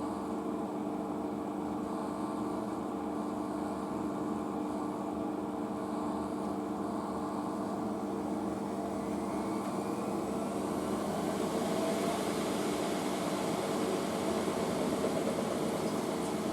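Washing machine on a spin, motor and drum running steadily; over the second half a whine rises in pitch and the sound grows louder as the drum speeds up toward about 600 rpm.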